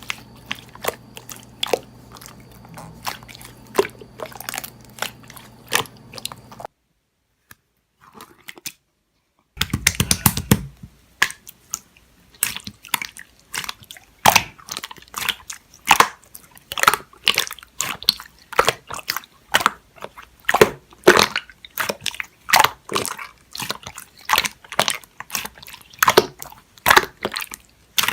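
Slime being squished, pressed and stretched by hand, giving a dense run of irregular crackling clicks and pops from trapped air. The clicking stops for about three seconds a quarter of the way in, then comes back louder and busier.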